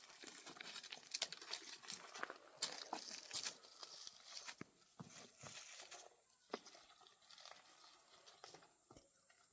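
Irregular rustling and crackling of leaves and twigs, busiest in the first half and dying away to a faint hiss after about six seconds, with one last click.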